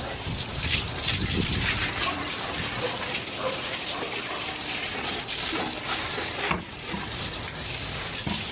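Water spraying and splashing onto a porch floor as it is washed down, an irregular splashing that runs on steadily.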